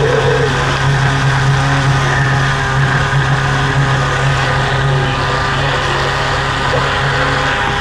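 Semi truck's diesel engine idling, a steady low hum that does not change.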